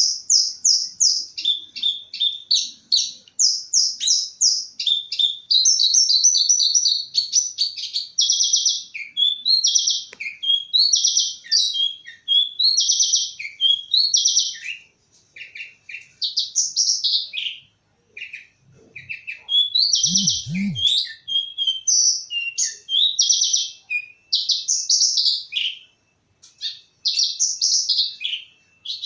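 Branjangan (Horsfield's bush lark) singing: a long, high-pitched run of fast, varied trills and chirps in phrases broken by short pauses.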